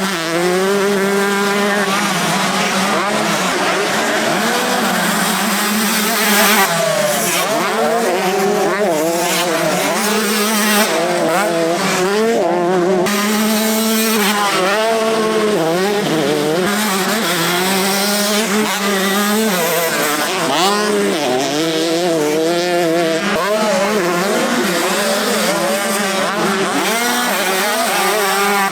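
Several 125cc two-stroke motocross bikes racing on a track, their engines revving up and down over one another as they accelerate and shift.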